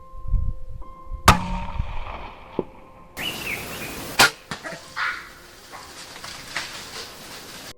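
Two sharp bangs about three seconds apart amid a noisy, rustling commotion, with a faint steady music tone under the opening second.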